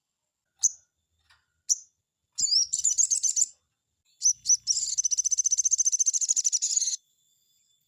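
Sogon (crimson sunbird) singing high and thin: two single chirps, a quick warbling phrase about two and a half seconds in, then a fast trill of rapidly repeated notes lasting about two seconds that stops abruptly, the rolling 'ngleper' style that bird keepers prize in this song.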